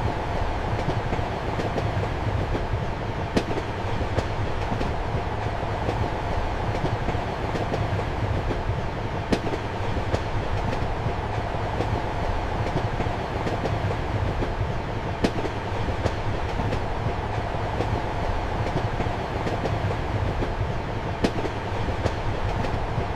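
Steady rumble of a moving train heard from inside a passenger compartment, with wheels clacking over rail joints; a sharper click stands out about every six seconds.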